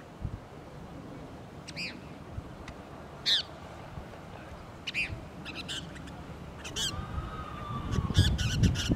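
Short bird calls, single ones a second or so apart and then a quick run of several near the end. A low rumbling noise rises under them in the last second.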